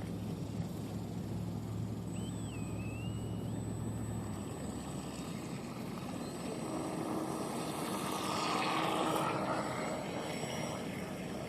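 Electric RC tunnel-hull boat with a 1900kv brushless motor running on the water: a thin, high, steady whine over hull and water noise. The sound swells as the boat passes closest about eight to nine seconds in and drops in pitch as it goes by.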